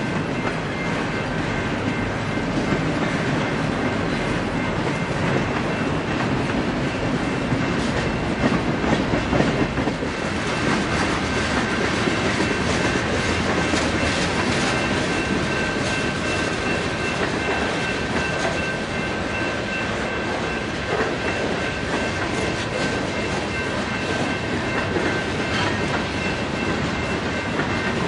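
Freight train cars rolling steadily past: a continuous rumble of steel wheels on rail, with occasional clacks as wheels cross the rail joints.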